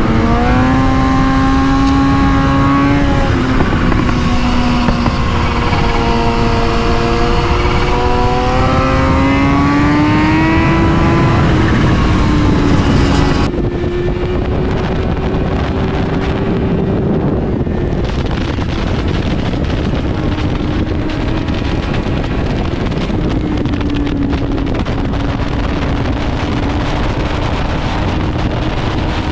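Inline-four sport motorcycle engine under way, its pitch climbing and falling as the revs rise and the gears change. About halfway through the sound changes abruptly to a steadier, duller engine note under rushing wind noise.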